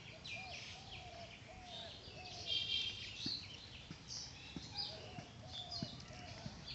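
Birds chirping and calling, many short high notes overlapping. Another call gives a run of short low arched notes, about five in a row, once early on and again about five seconds in.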